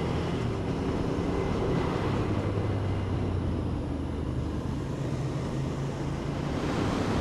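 Motorcycle engine running at a steady cruising speed, its low hum under wind and road noise.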